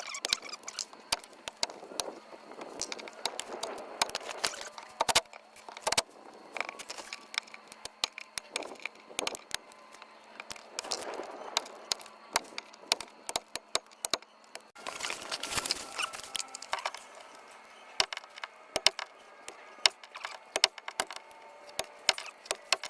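Irregular sharp clicks, knocks and light scrapes of hand tools such as vice grips working on stubborn screws and bolts in the camper's underside panels.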